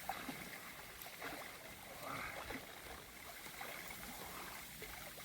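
Quiet water splashing and lapping, with small irregular splashes, as of someone moving in shallow water.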